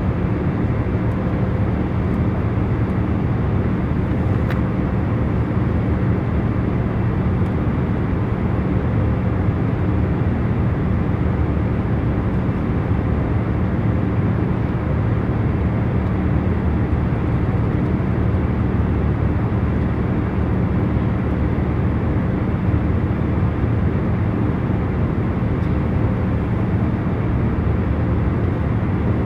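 Steady cabin noise of a jet airliner in cruise: an even low roar with a faint steady hum and no change.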